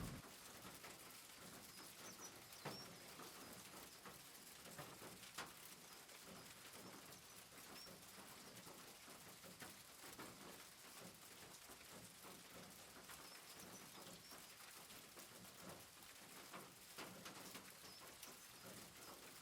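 Near silence: faint room tone, with a few soft clicks now and then.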